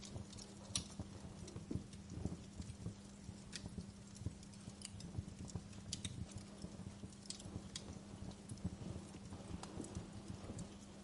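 Wood fire crackling in a fireplace: irregular sharp pops and snaps over a low, steady rumble of burning, with a faint steady hum underneath.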